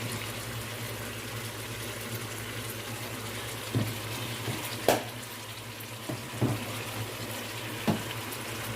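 Chicken frying in oil with chopped tomato in a cooking pot, a steady sizzle, with a few light knocks now and then.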